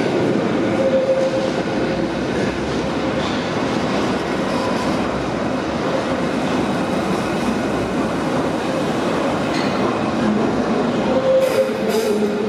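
Merseyrail Class 777 electric train running along an underground station platform: a steady rumble and clatter of wheels on rail, with a brief tone about a second in and again near the end.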